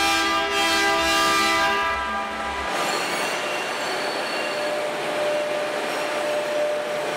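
Tunnel muck train's horn sounding one steady blast of about two and a half seconds, then the train running along the rails with an even rumble and a thin steady whine from the wheels.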